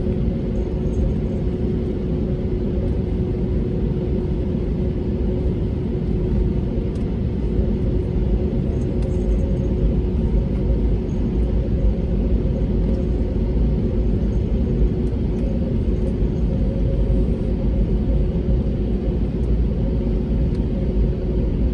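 Steady cabin noise inside an Airbus A320neo with Pratt & Whitney PW1100G geared turbofans: an even low rumble with a constant hum tone running through it, no rise or fall in pitch or level.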